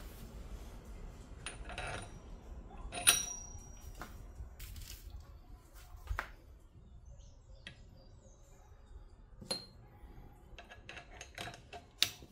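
Scattered metallic clinks and taps of hand tools and metal parts being handled. The loudest is about three seconds in, with a brief ringing tone, and another sharp clink comes near the end.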